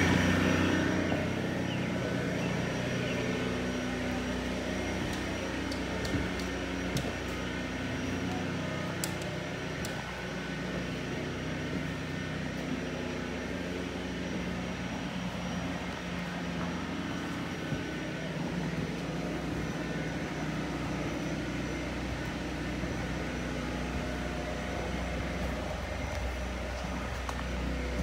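A motor-driven machine running steadily: a constant low hum with a few fixed tones over an even hiss.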